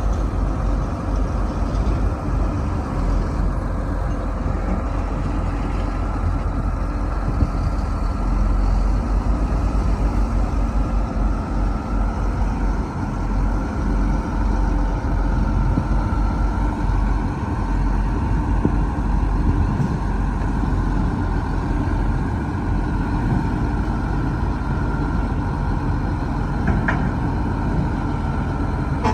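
Heavy diesel engines of earthmoving machinery running steadily, a dense low rumble with a faint steady whine above it.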